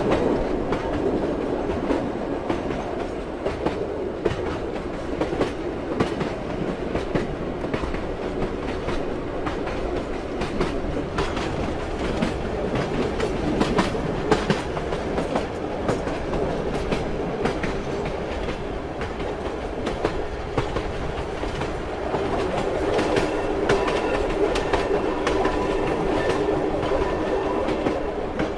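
Train wheels clacking over rail joints amid a steady rolling rumble of the moving carriage. Past the middle a steady hum joins in.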